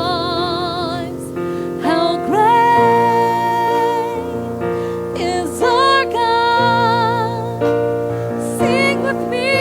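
Worship singing: a woman's voice holding long notes with vibrato, sliding up into each new phrase, over sustained piano and keyboard chords.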